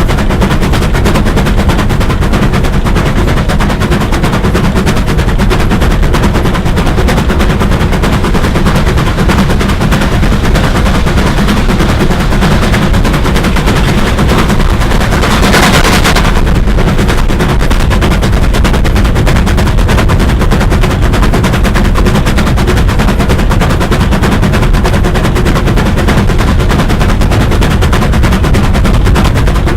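Bulleid steam locomotive working close by: a loud, rapid, continuous clatter of exhaust and running gear, with a burst of steam hiss about fifteen seconds in.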